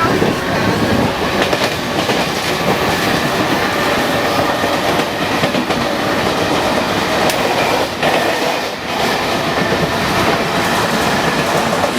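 Mumbai suburban train running, a loud steady rumble with the clickety-clack of wheels over the rails.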